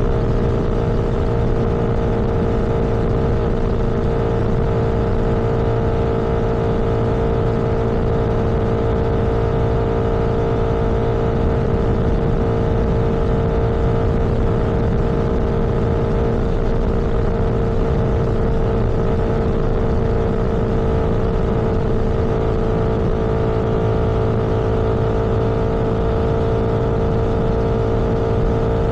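Vehicle engine running at a steady cruising speed: one constant hum that holds its pitch throughout, over a steady low rumble.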